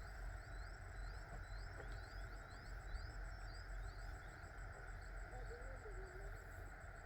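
Outdoor rural ambience: a steady chorus of insects, with a bird's short rising chirps repeated about three a second through the first half.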